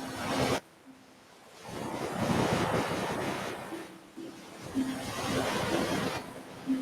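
Ocean waves breaking and washing up a beach, the surf swelling and fading twice. The sound drops away abruptly about half a second in and returns a second later.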